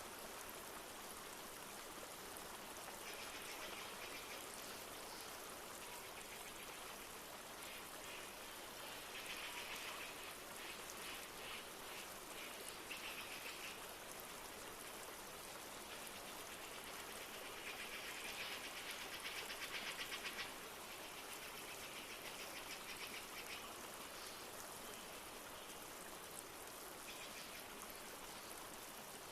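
Rainforest ambience: a flowing river's steady rushing with light rain, overlaid by rapid trilling bird calls that come and go several times, the longest about two-thirds of the way through.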